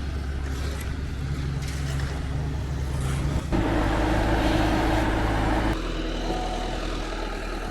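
Heavy construction machinery engine running steadily, its pitch and loudness changing suddenly twice, about three and a half and about six seconds in.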